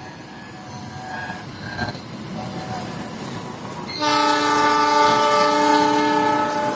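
Argo Parahyangan passenger train approaching with a rising rumble, then its locomotive horn sounds one loud, steady multi-tone blast starting about four seconds in and held for nearly three seconds.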